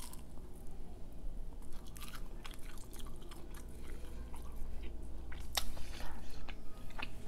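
Close-up chewing and biting of a fried, breaded mozzarella cheese stick, with crisp crackles from the breading and a louder crunch about five and a half seconds in.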